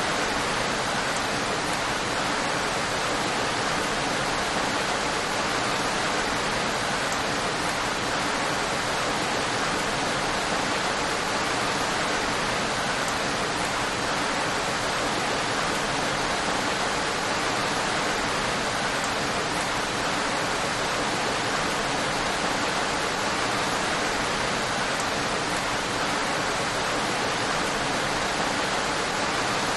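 Steady rainfall, an even unbroken hiss that holds the same level throughout, with no thunder or single drops standing out.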